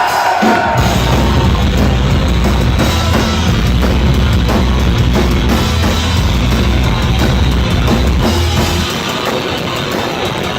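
Live punk rock band kicking into a song: loud drums and heavy bass guitar with distorted guitars. The heavy bass comes in under a second in and drops away near the end.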